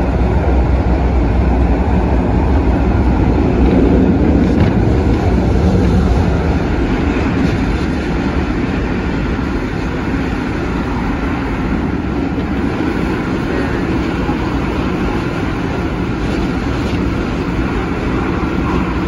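Cabin running noise of an MTR Tung Chung line A-train at speed: a steady rumble of wheels on rail and traction equipment, a little louder over the first several seconds, then easing slightly.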